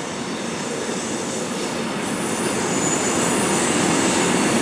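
Loaded freight wagons of a Class 66-hauled train rolling past on the main line: a steady rumble of wheels on rail with a faint high squeal, growing slightly louder.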